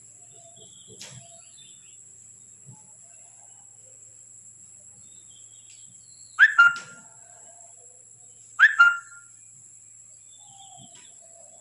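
A bird calling twice, about two seconds apart, each call a quick pair of short notes dropping in pitch, over a faint steady electrical whine.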